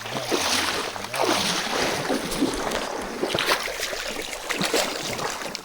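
Creek water splashing and sloshing around people wading and swimming, a steady rush with irregular small splashes.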